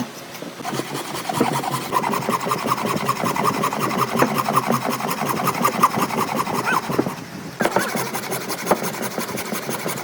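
Rapid, even back-and-forth strokes of a hand tool scraping on wood, such as sawing or rasping. It stops briefly about seven seconds in, then resumes.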